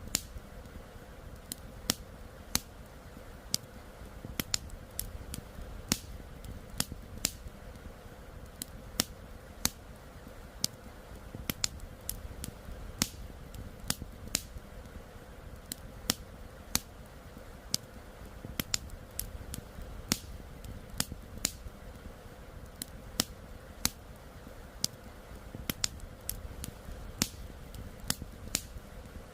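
Wood campfire crackling, with sharp irregular pops and snaps about once or twice a second over a steady low background rush.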